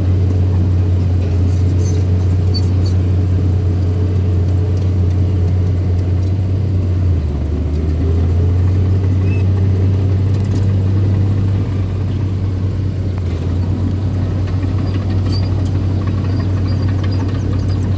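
Small bulldozer's diesel engine running steadily as a deep, continuous drone. Its pitch dips briefly about seven seconds in, and it eases off a little near twelve seconds.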